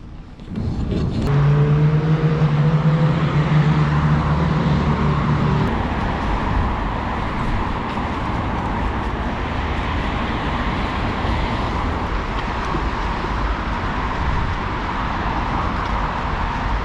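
A motor vehicle's engine hum starts about half a second in and holds for about five seconds, then gives way to steady road traffic noise.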